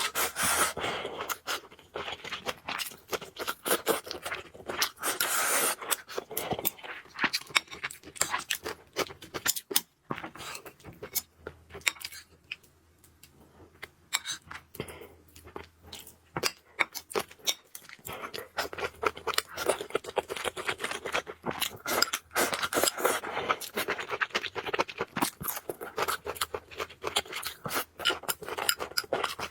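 A person eating noodles close to the microphone: chewing with many small, irregular clicks and crunches, and scraping. It goes quieter for several seconds about a third of the way in, then picks up again.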